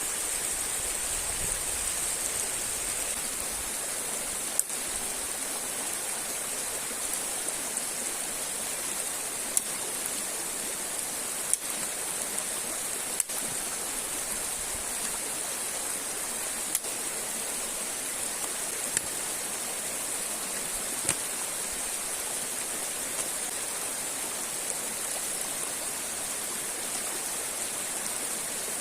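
Steady rushing of a river and waterfall, with a few sharp clicks scattered through it.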